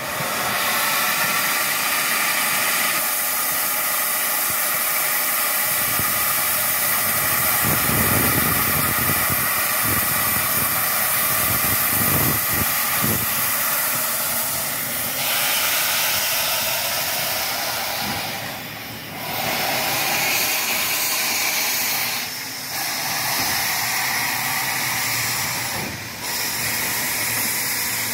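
Steam hissing loudly and steadily from a MÁV class 424 steam locomotive, with a few brief dips in the last third.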